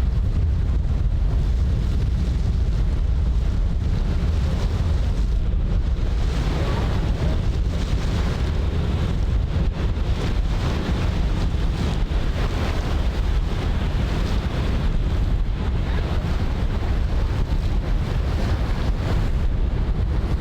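Wind buffeting the microphone as a steady low rumble, with the wash of harbour water beneath it.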